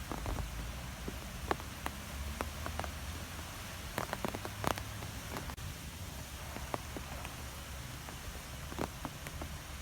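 Wind blowing through trees: a steady rushing hiss over a low rumble, with scattered sharp ticks and crackles of leaves and twigs, busiest near the middle.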